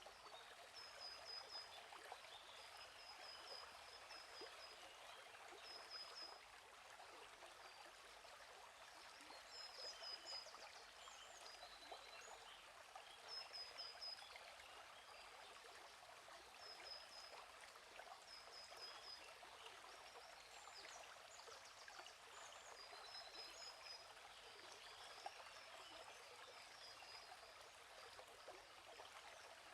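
A gently flowing stream, with small birds giving short, high chirps in quick runs every few seconds.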